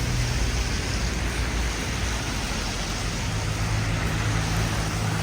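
Street traffic: a vehicle engine's low hum over a steady hiss. The hum drops away briefly about two seconds in and returns a second later.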